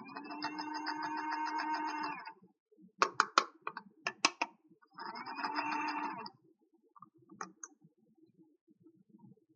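Small battery-powered toy buzzing steadily for about two seconds, twice, with a quick run of sharp plastic clicks in between.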